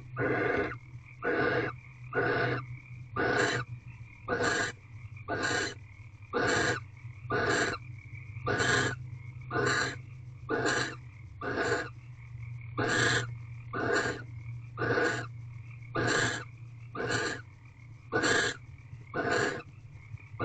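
Barn owl in a nest box giving a long series of hissing, snore-like calls, about one a second and each about half a second long, over a steady low hum.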